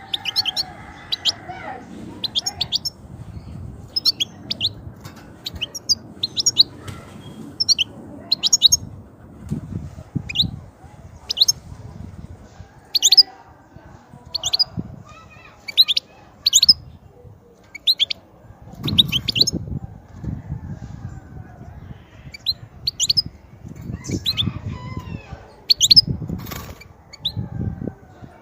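European goldfinch giving a long run of short, sharp high call notes, about one or two a second, with a few softer warbled phrases between them. Low thuds and rumbling come in at times, strongest a third of the way in and again near the end.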